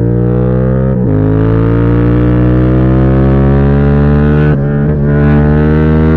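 2016 Yamaha MT-07's 689 cc parallel-twin engine accelerating hard through an exhaust with its baffle removed. The pitch drops sharply about a second in, as at an upshift, then climbs steadily, with a brief break about four and a half seconds in.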